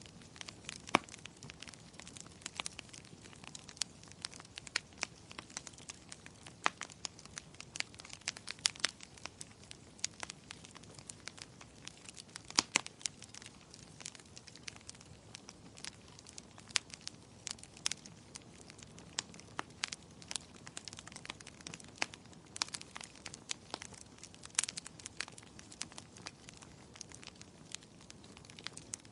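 Wood fire crackling in a fireplace: irregular sharp pops and snaps over a low steady hiss of burning.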